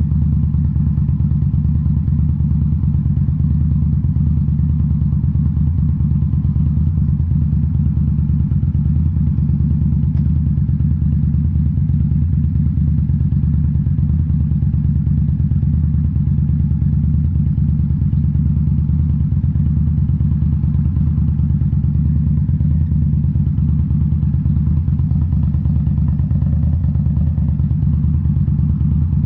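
2018 Indian Scout Bobber's V-twin engine running through Rinehart slip-on mufflers at a steady cruise, its exhaust note holding an even pitch.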